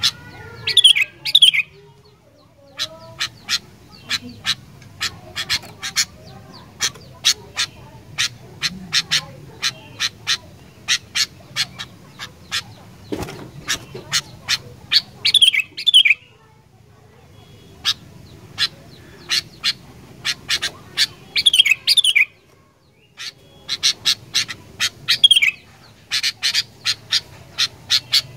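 Sooty-headed bulbul (kutilang) calling: long runs of short, sharp notes at about two or three a second, broken every few seconds by a brief warbling phrase that falls in pitch.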